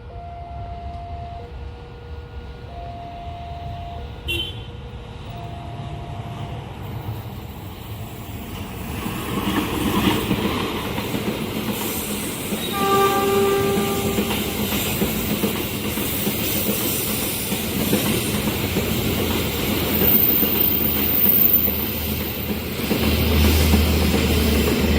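Railway level-crossing alarm sounding in two alternating tones, then a train approaching and passing at speed with a rising rumble and rushing noise. The train sounds its horn once, briefly, about halfway through.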